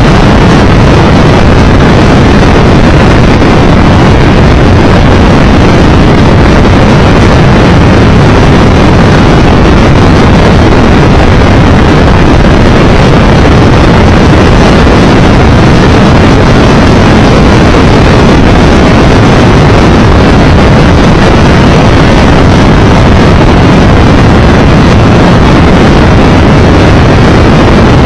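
Loud, steady wind rush and road noise on the microphone of a Triumph Tiger Explorer 1200 motorcycle riding at speed. The noise is heaviest in the low end and does not let up.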